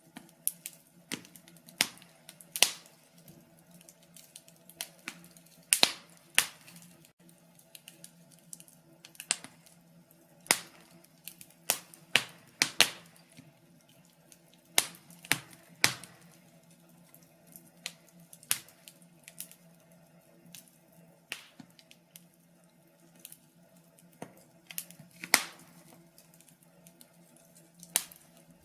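Wood fire crackling, with irregular sharp snaps and pops, a handful of them much louder. Underneath runs a faint steady hum.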